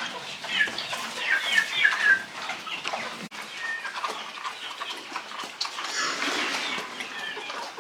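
Farm animals calling: a busy run of short, high calls, with a brief break about three seconds in.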